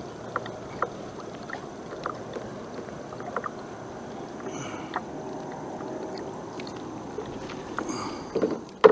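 Water lapping and splashing against a kayak hull, with scattered light clicks and taps. A few louder knocks come near the end.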